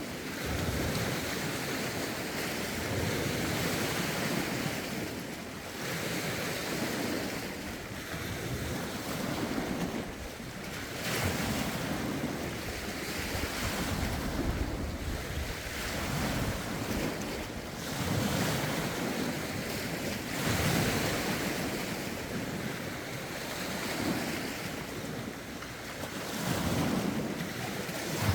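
Lake waves breaking and lapping on the shore in a steady rhythm, swelling and easing every couple of seconds, with wind buffeting the microphone in low rumbles.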